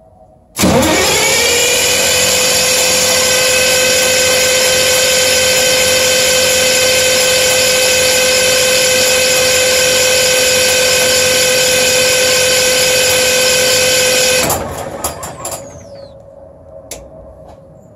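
MEP-006A generator's diesel engine cranking on its electric starter without firing: a steady whine that rises to pitch as it spins up, holds for about fourteen seconds, then cuts off and runs down. It is a crank with no start while blowing white smoke, which the owner suspects is injection timing 180 degrees off.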